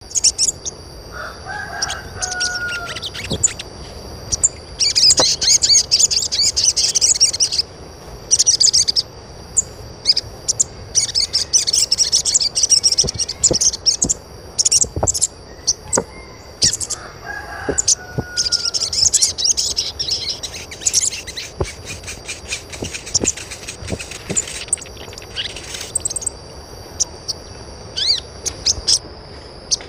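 Birds chirping in rapid high bursts over a steady high-pitched tone, with a lower, longer call twice.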